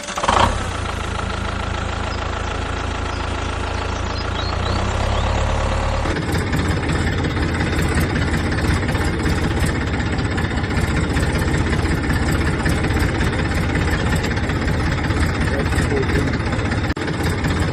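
Tractor engine starting, running steadily, then about six seconds in changing to a rougher, louder running.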